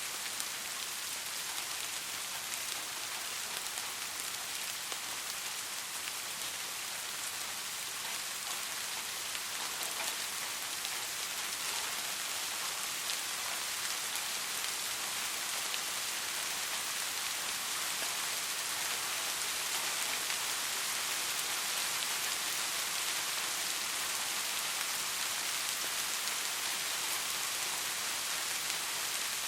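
Soft, steady rain: an even hiss of falling drops with faint scattered pattering, growing slightly louder about a third of the way in.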